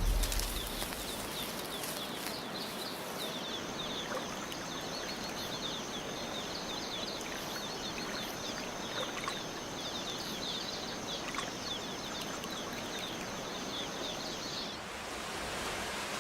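Tropical rainforest ambience: many quick, high chirping calls over a steady hiss, with a thin, steady high whine that comes in about three seconds in and stops near the end.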